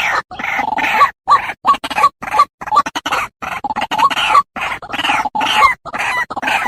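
White-breasted waterhen calls played as a hunter's lure: harsh, croaking 'kru-ak' notes repeated two to three times a second. The run is broken by short gaps of dead silence.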